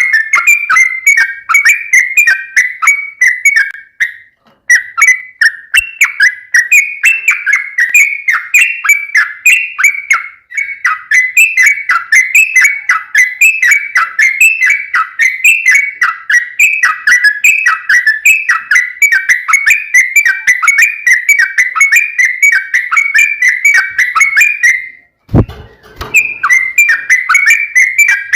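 Yellow-vented bulbul (trucukan) singing a long, rapid run of bubbly whistled notes, several a second. It pauses briefly about four seconds in, and again near the end, where a short low thump is heard.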